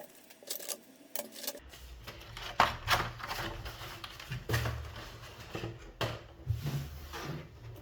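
Small tools and parts being handled on a work surface: scattered light clicks and knocks with some rustling, over a faint low hum that comes in about a second and a half in.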